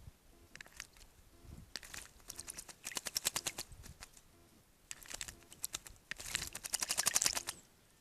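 A small songbird bathing, splashing water in rapid flurries of wing flicks, in two bouts, the second, near the end, the longer and louder.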